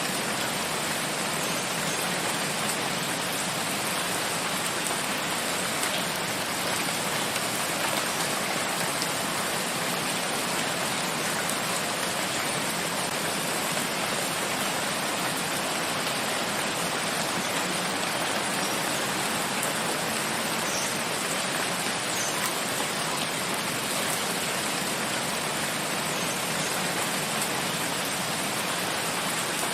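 Steady rain falling in a forest, an even rushing hiss with faint scattered drop ticks.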